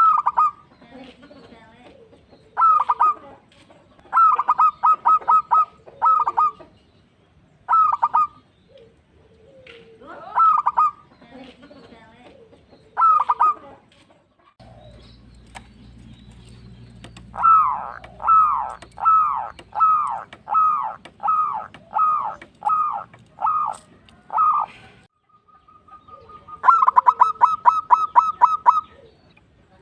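Zebra doves (perkutut) cooing in short bursts of quick, clipped notes. Around the middle comes a slower run of about a dozen falling notes, roughly two a second, and near the end a fast run of notes.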